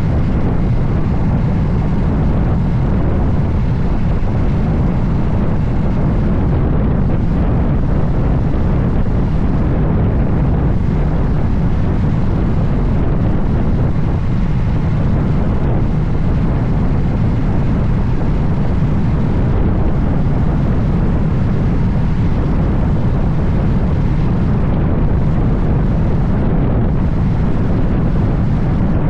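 Steady wind noise buffeting the microphone on a moving Moto Guzzi Stelvio motorcycle, with the bike's engine and road noise running under it. It is loud and heaviest in the low end, with no change throughout.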